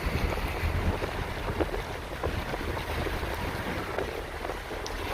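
Wind buffeting the microphone, a steady low rumble with a hiss of outdoor noise.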